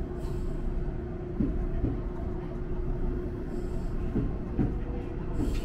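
Electric train running slowly, heard from inside the front car: a steady rumble with a constant motor tone and a few short knocks from the wheels.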